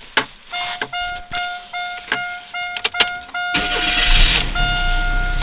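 Car's dashboard warning chime pinging in a steady series after a couple of clicks from the key. About three and a half seconds in, the starter cranks briefly and the 1995 Chevrolet Corsica's 2.2-litre four-cylinder catches and settles into a steady idle, with the chime still going.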